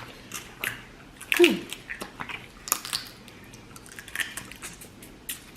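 Snow crab legs being cracked and eaten: scattered sharp shell clicks and cracks with chewing, and a short vocal sound about one and a half seconds in.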